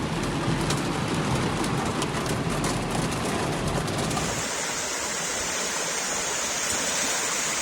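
Heavy rain and running floodwater, a steady hiss with a low rumble. About four seconds in the low rumble drops away and a higher, brighter hiss takes over.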